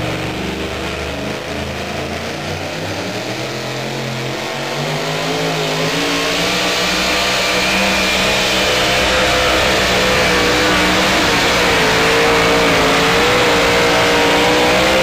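Supercharged engine of a super modified two-wheel-drive pulling truck running at full throttle down the track under the load of the sled, its pitch wavering. It grows louder over the second half of the pull and cuts off suddenly at the end.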